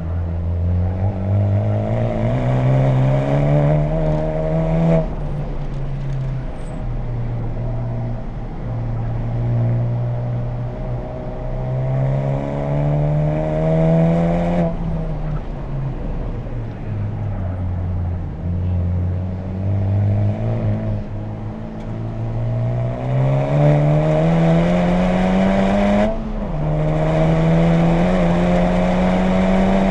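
Honda Civic Type R's 2.0-litre turbocharged four-cylinder engine through an HKS Legamax exhaust, pulling hard at full throttle. The pitch climbs steadily and drops sharply on upshifts about five, fifteen and twenty-six seconds in. Between them, the revs sag and fall off under braking.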